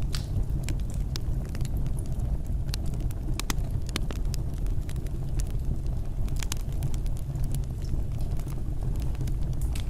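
Fireplace fire burning: a steady low rumble of flames with irregular sharp crackles and pops, a small cluster of them about three and a half seconds in.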